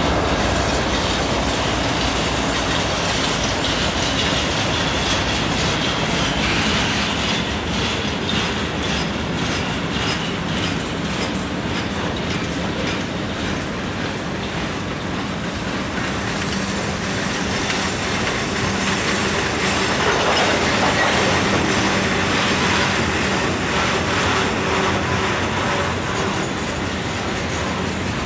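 A train rolling past, its wheels clacking steadily over the rail joints, with some wheel squeal.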